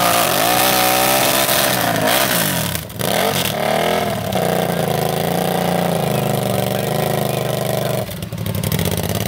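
Hill-climb dirt bike's engine, with the bike stuck on a steep sand slope, revving up and down in short surges. It settles into steadier, higher revs after about four seconds, with a short dip near the end.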